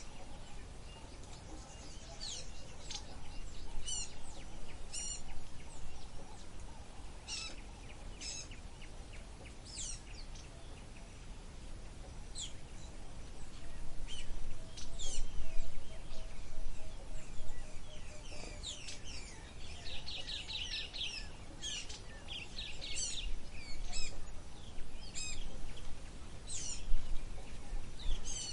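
Small birds chirping and calling, short sharp notes scattered throughout, with a quick trill of rapidly repeated notes about twenty seconds in, over a steady low background noise.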